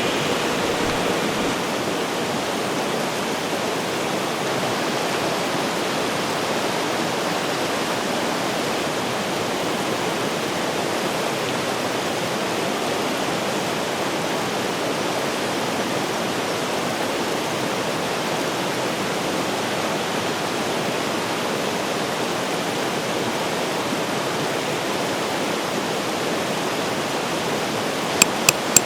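A river rushing steadily over rocks. A few sharp clicks sound near the end.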